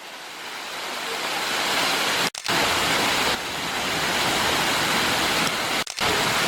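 Waterfall's steady rushing water, growing louder over the first two seconds, with two brief dropouts.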